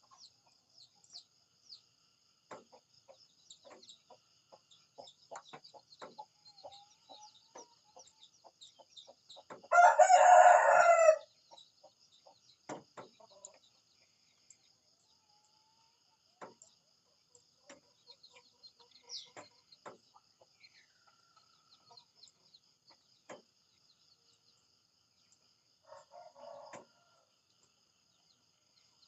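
A rooster crows once, loudly, for about a second and a half about ten seconds in, and gives a shorter, fainter call near the end. Scattered short clicks and ticks sound between the calls over a faint steady high whine.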